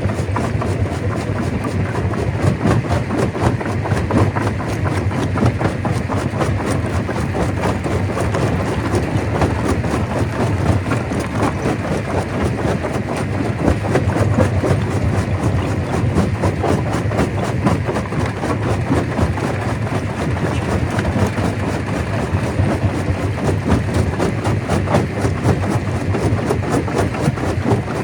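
Stone crusher running, a steady heavy machine noise with a dense, continuous clatter of rock being crushed.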